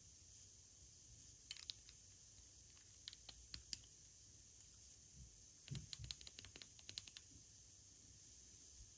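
Light, sharp clicks and crackles of packaging being handled, in three short flurries, the last one the longest and densest, over a faint steady hiss.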